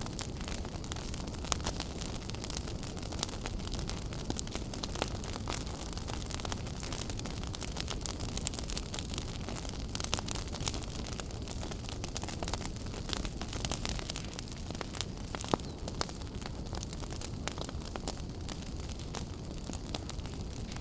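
Wood fire burning in a fireplace: a steady low rush with frequent sharp crackles and pops at irregular intervals.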